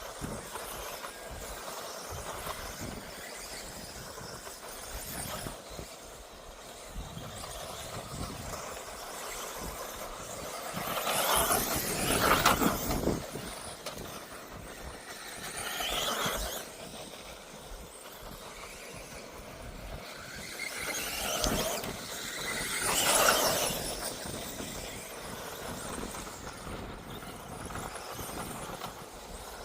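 1/10th-scale electric 2wd off-road RC buggies racing, their electric motors and gears making a high-pitched whine. The whine swells and fades as buggies pass close, loudest about twelve seconds in and again about twenty-three seconds in.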